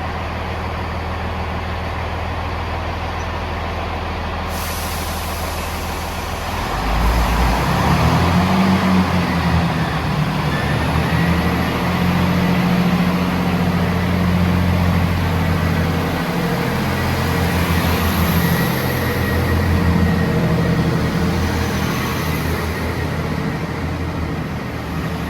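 Diesel train engine running at a station, throttling up and getting louder about seven seconds in. A high hiss joins it a little earlier.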